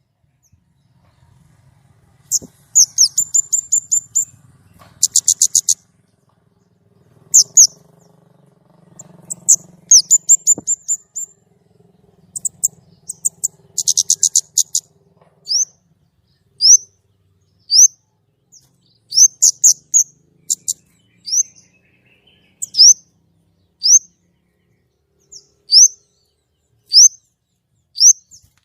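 A kemade songbird singing loudly and hard: bursts of rapid, very high trills in the first half, then a run of short rising whistles repeated about once a second.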